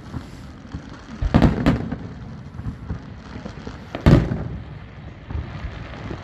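Fireworks exploding: a quick run of two or three bangs about a second and a half in, then one louder bang about four seconds in and a smaller one shortly after, with low crackling between them.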